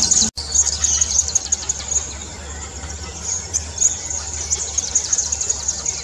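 Northern red bishop chirping: a busy run of rapid, thin, high chirps and twitters over a low steady rumble, broken by a short dropout about a third of a second in.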